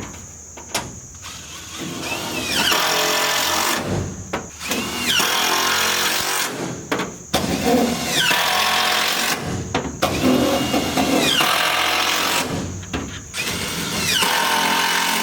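Power driver sinking screws through sheet-metal roofing into the wood framing: five runs of about two seconds each, each starting with a rising motor whine.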